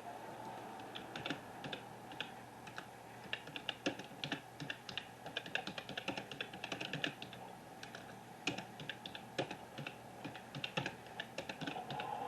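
Rapid, irregular light clicking, like keys being typed, over a steady low hum.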